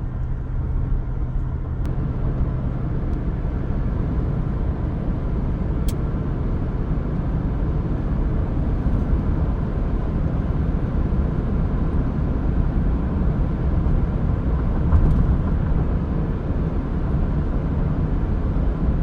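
Steady road and engine noise of a vehicle driving along, a continuous low rumble with no change in speed.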